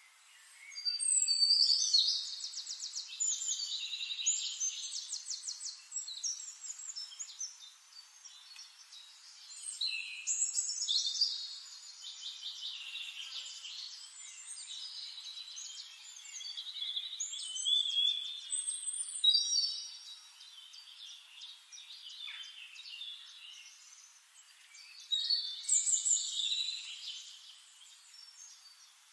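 A songbird singing: four long, fast, twittering song phrases of a few seconds each, spaced several seconds apart, over a faint steady hiss.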